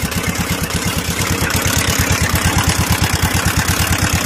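TVS Ntorq 125 scooter's single-cylinder engine idling with a rapid, even beat and a noisy rattle over it. The abnormal noise comes from the magneto-side (flywheel) nut, which was left loose with its lock plate wrongly fitted.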